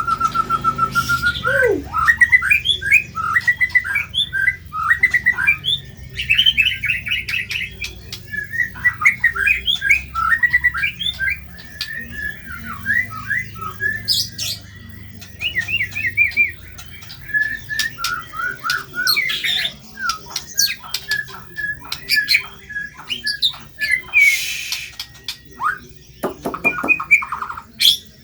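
White-rumped shama (murai batu) singing a long, varied song of quick whistled and chattering phrases, with a few harsh, rasping calls near the end.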